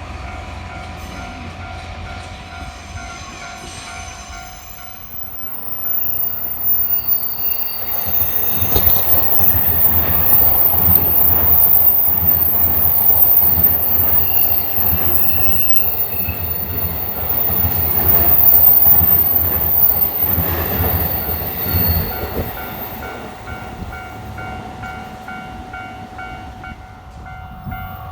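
A train passing over a Japanese level crossing: the crossing's warning bell rings in a steady repeating ding, then the train's rumble and wheel clatter rise about five seconds in, stay loud for some fifteen seconds and fade away near the end, leaving the bell ringing.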